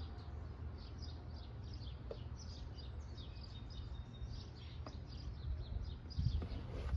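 Songbirds chirping over and over in short, quick downward notes, over a steady low background rumble, with a few soft knocks near the end.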